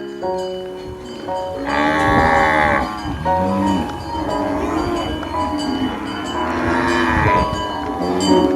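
Cattle mooing, with two long loud moos about two seconds and seven seconds in and lower calls between them, over background music.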